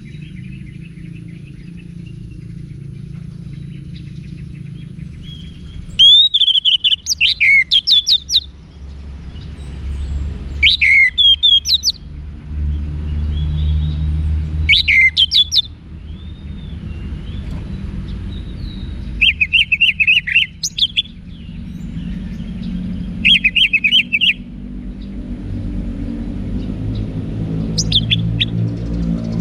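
Orange-headed thrush (anis merah) singing in about six short bursts of quick, varied whistled phrases a few seconds apart, over a steady low rumble.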